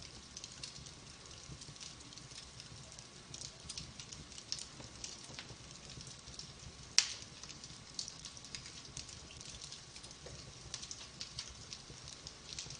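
Wood fire burning in a fireplace, with light, irregular crackling of the logs and one much louder sharp pop about seven seconds in.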